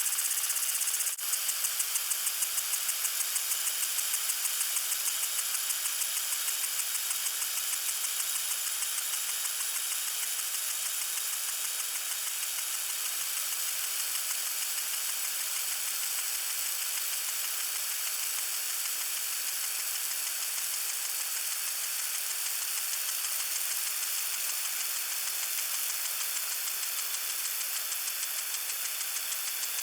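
Lawn sprinkler spraying water: a steady high hiss with a regular quick ticking running through it.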